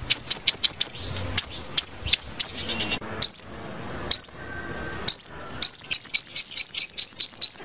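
Sunbird calling: a quick run of sharp, high chirps, each sweeping upward. About three seconds in it slows to a few spaced notes, then speeds up into a fast run again.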